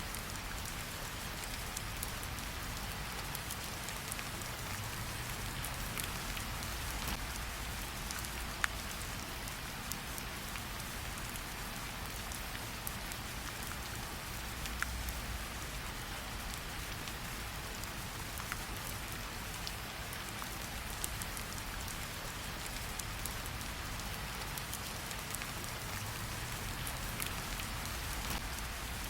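Steady rain falling, mixed with a campfire crackling, with a few sharp pops scattered through.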